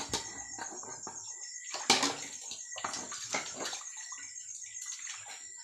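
Water splashing and sloshing as dishes are washed by hand, with irregular knocks and clinks of dishes and spoons.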